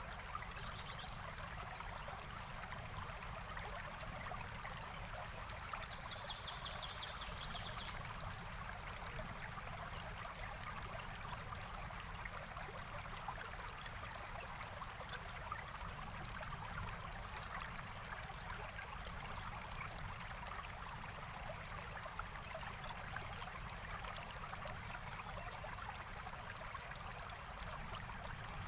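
Forest stream flowing steadily. A bird trills briefly just after the start and again about six seconds in.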